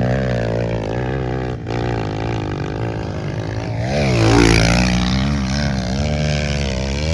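Pit bike engine running, its revs rising and falling unevenly. There is a short drop about a second and a half in, and a louder rev-up around four seconds in.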